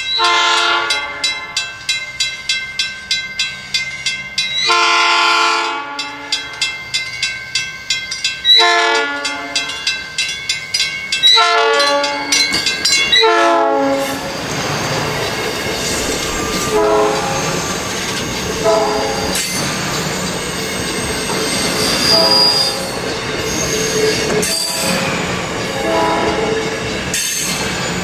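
South Shore Line electric commuter train sounding its horn in five blasts as it approaches a grade crossing, over a crossing bell ringing about three times a second. About halfway through the train rolls past close by with a steady rumble of wheels on rail and brief wheel squeals every couple of seconds.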